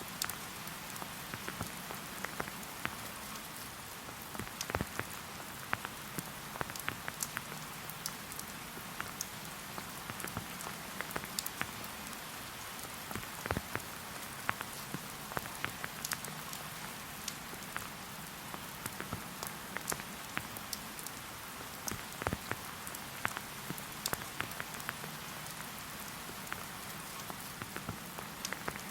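Steady light rain falling in a forest, with a constant soft hiss and the sharp, irregular taps of individual drops landing nearby.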